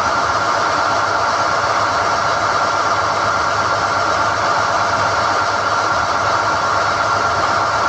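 SDH-1600 core drilling rig running steadily while hoisting NQ drill rods from the hole: an even machine drone with a steady high whine over a low hum.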